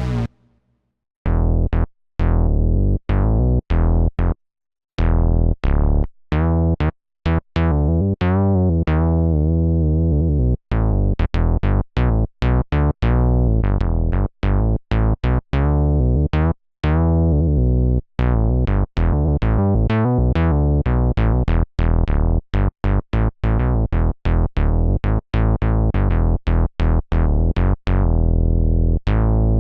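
Korg Radias synthesizer playing a plucky bass-heavy patch: a run of short, separate notes, each starting bright and quickly turning dull, at about two to four notes a second after a brief silence at the start.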